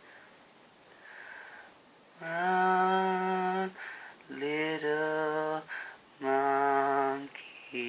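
A single unaccompanied voice humming wordless, long held notes, three of them each a little lower than the last, after a quiet first two seconds.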